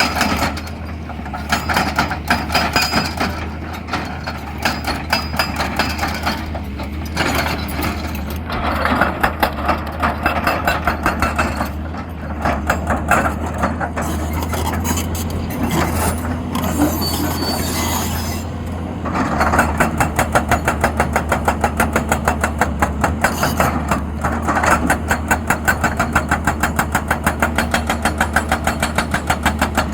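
XCMG XE200DA hydraulic excavator working, its diesel engine running with a steady low hum under irregular mechanical knocks. About two-thirds of the way in, a fast, even clatter of about three to four beats a second sets in and carries on.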